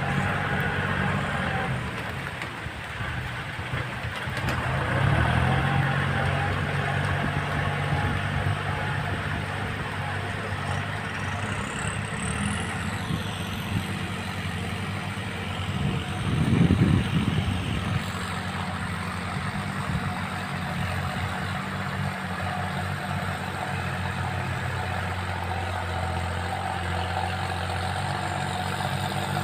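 Kubota farm tractor's diesel engine running steadily while rotary-tilling a wet rice paddy, with a brief louder swell a little past halfway.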